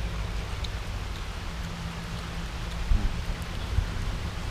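Steady rain falling, an even hiss, over a constant low rumble, with a single low knock about three seconds in.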